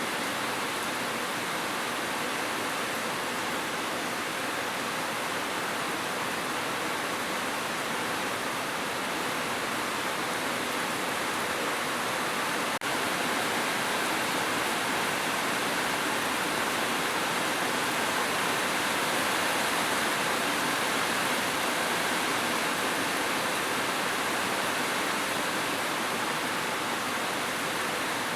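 Heavy rain falling steadily on a roof, an even hiss with no thunder.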